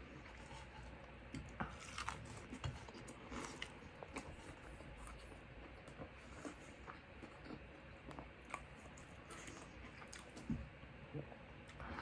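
A person chewing and biting a fried chicken tender, heard faintly as small scattered crunches and mouth clicks, with a slightly louder bite about ten seconds in and more near the end.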